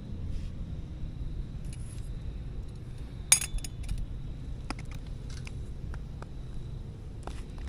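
Metal cutlery and cookware clinking and knocking in scattered light strokes, with one sharper clink a little past three seconds in, over a steady low rumble.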